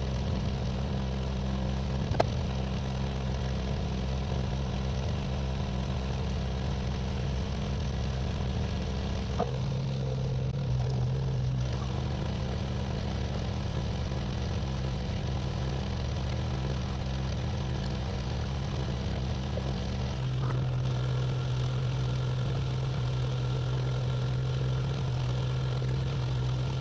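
Excavator's diesel engine running steadily, its pitch shifting twice. Two short sharp knocks, about two seconds in and again near nine and a half seconds.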